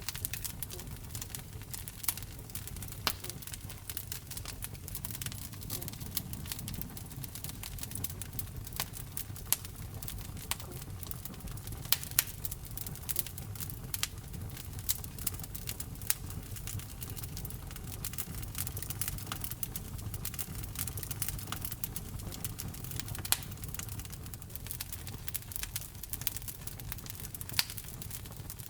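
Wood fire burning in a fireplace, crackling: irregular sharp pops and snaps, a few louder ones, over a steady low rumble of the flames.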